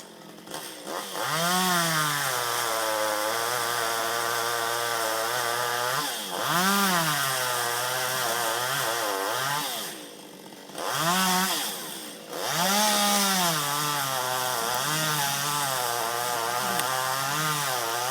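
Two-stroke chainsaw running at high throttle and cutting into a tree, its pitch rising as it revs and settling lower under the load of the cut. It drops back briefly to idle about ten seconds in, revs up again, and goes back into the cut.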